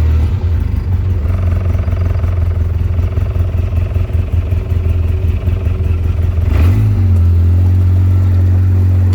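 Vehicle engine running under way with a steady low drone. About two-thirds of the way through, its pitch drops, as on a gear change or easing off, then holds steady.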